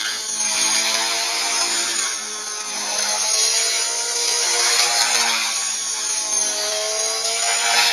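Small 250-size radio-controlled helicopter flying 3D aerobatics: a high motor and rotor whine that wavers in pitch, with swells of rushing blade noise as it manoeuvres.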